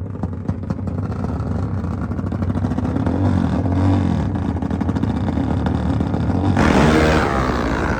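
Motorcycle race engines revving and accelerating hard, with the engine note rising and falling and a louder surge near the end.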